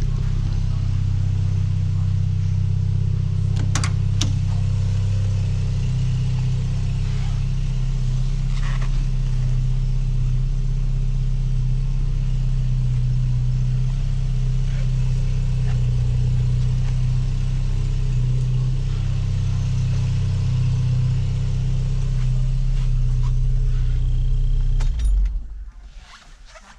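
1982 VW Rabbit Caddy pickup's engine idling steadily, then switched off with the ignition key near the end, the running sound dying away within about a second.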